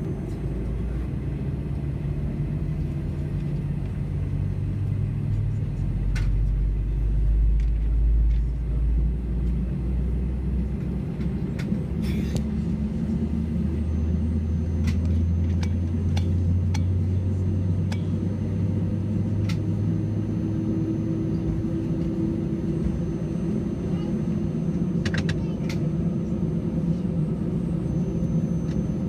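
Steady low rumble of a running vehicle. Its low engine hum shifts in pitch and swells twice, with scattered faint clicks.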